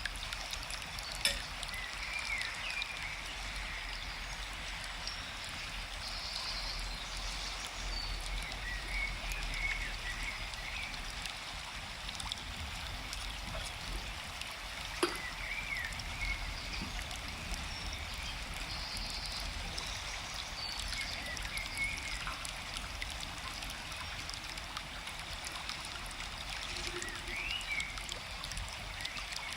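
Steady flow of a forest stream, with small birds chirping now and then. Two brief sharp clicks, about a second in and about halfway through.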